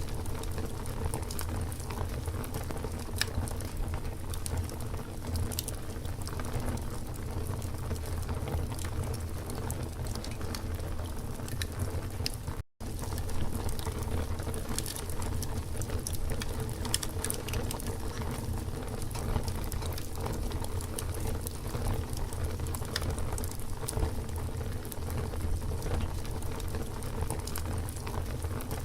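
Campfire burning with continual crackling and small pops over a low steady rumble of flames. The sound briefly cuts out for a split second near the middle.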